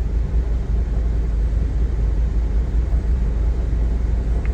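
Steady low rumble with a noisy hiss above it.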